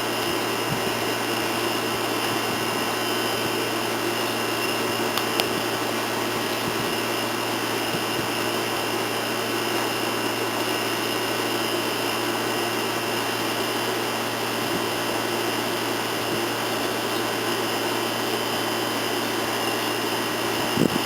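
Steady whirring hum of an electric motor, even throughout, with a faint click about five seconds in.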